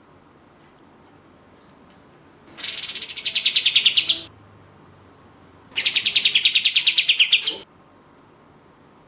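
Kapas tembak (katem) bulbul song: two fast trilled bursts, each about a second and a half long, of rapidly repeated notes that start high and drop to a lower held pitch, the 'tembakan' volleys used as a lure call.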